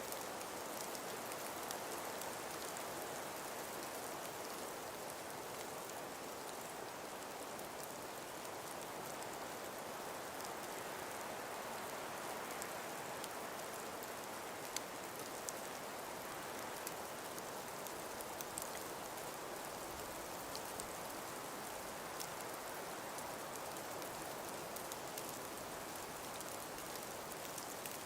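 Steady, even outdoor hiss with scattered faint ticks.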